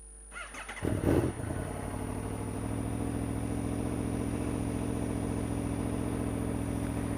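2014 Aprilia Tuono V4 1000's V4 engine cranked on the electric starter and catching about a second in with a brief flare of revs, then settling into a steady idle.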